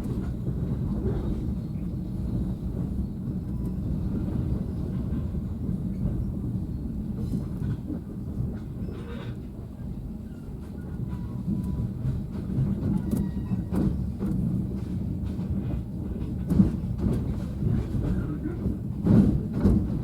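KTM sleeper train running on the rails: a steady low rumble with occasional sharper knocks, the loudest about two-thirds of the way through and again near the end.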